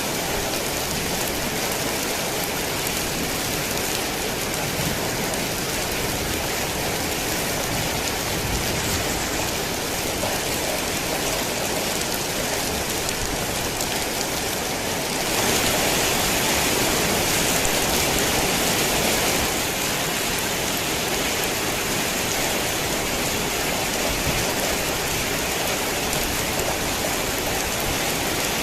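Heavy rain falling steadily, swelling louder for a few seconds about halfway through before settling back.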